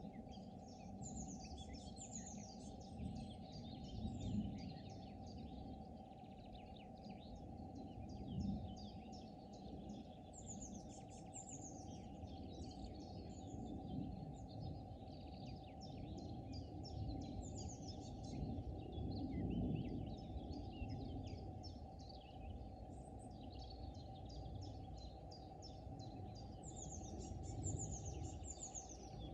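Several songbirds singing and calling together, with rapid trills and quick falling phrases that come and go throughout, over a steady low rumble that swells a few times.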